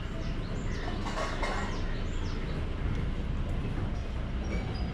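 Birds chirping in short, high, falling notes, clustered early and a few near the end, over a steady low rumble.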